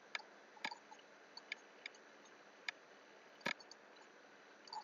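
About eight faint, sharp clicks at irregular intervals from a computer mouse and keyboard being worked, the loudest about three and a half seconds in.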